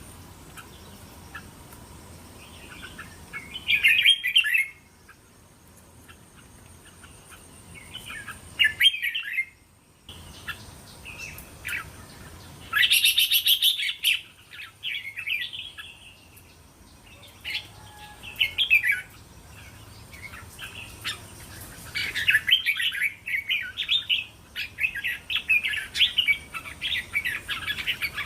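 Red-whiskered bulbul singing: short, bright warbling phrases every few seconds, turning into denser, near-continuous chattering song over the last several seconds.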